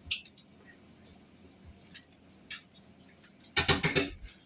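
Kitchen cookware and utensils being handled: a few light knocks, then a loud burst of rattling clatter near the end.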